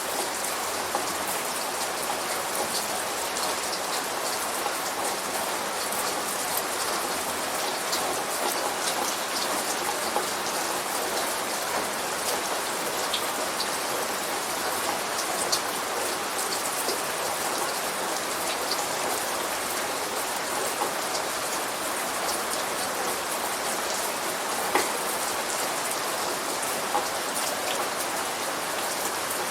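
Steady light rain falling, an even hiss of many small drops pattering on a surface, with the odd louder drip now and then.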